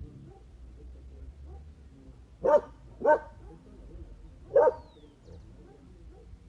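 A dog barking: two quick barks about two and a half seconds in, then a single bark about a second and a half later.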